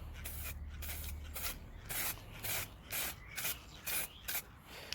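Aerosol spray-paint can hissing in a series of short, irregular bursts, about two a second, as paint is sprayed in quick passes.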